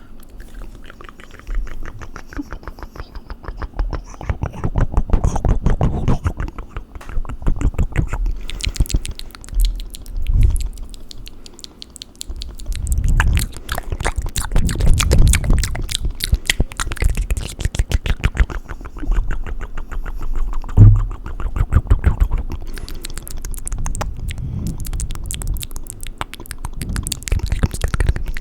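Fast, wet mouth and tongue sounds close to the microphone: rapid runs of clicks, smacks and tongue flutters, with louder low pops now and then.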